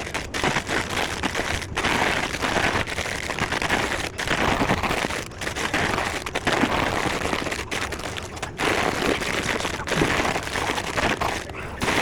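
Crackly crinkling of plastic snack bags being handled while loading a vending machine, broken by a few brief gaps.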